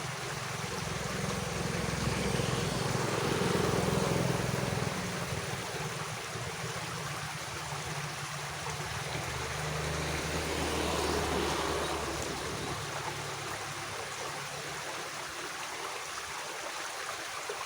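Water running in a small irrigation ditch, a steady rushing that swells louder twice.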